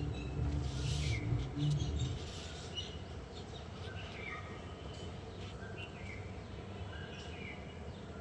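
Small birds chirping, with repeated short falling chirps, over a low rumble that drops away about two seconds in.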